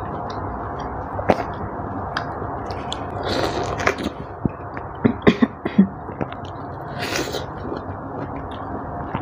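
A person chewing juicy orange segments close to the microphone, with wet mouth clicks. There is a cluster of sharper clicks about five seconds in.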